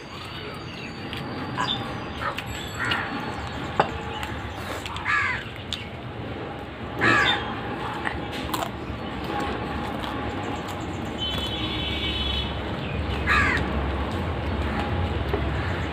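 Birds calling: a handful of separate calls a couple of seconds apart, with a low rumble building near the end.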